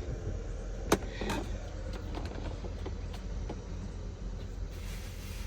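Clicks and knocks from handling parts of a car's interior: one sharp, loud click about a second in, a softer one just after, then a few light ticks, over a steady low rumble.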